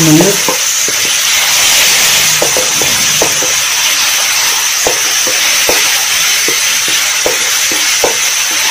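Ginger-garlic paste and bay leaves sizzling in hot oil in a pan, with a steady frying hiss. A wooden spatula stirs through it, knocking and scraping against the pan in short strokes at irregular intervals.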